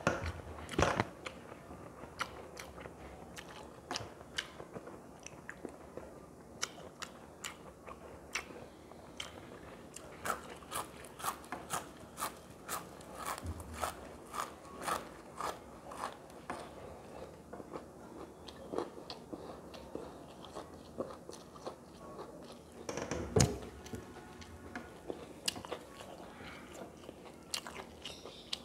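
A person chewing food close to the microphone, with many quick wet smacks and clicks of the mouth, eating by hand. A single louder thump comes about four-fifths of the way in.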